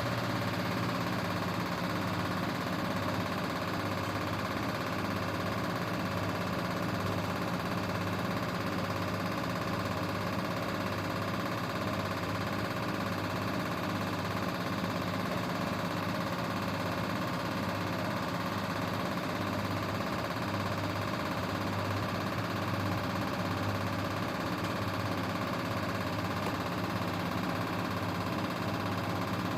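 Grundig GWM4762WE20 washing machine spinning steadily during its intermediate spin: an even motor hum and whine at constant speed.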